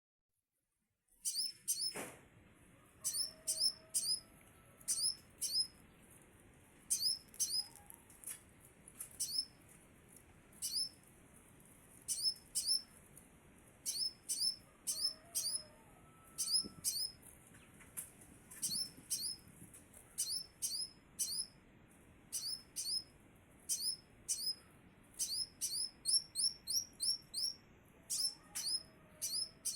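Scarlet minivet (sepah raja) calling: short, high, sharply falling whistled notes in quick groups of two to four, repeated again and again, starting about a second in.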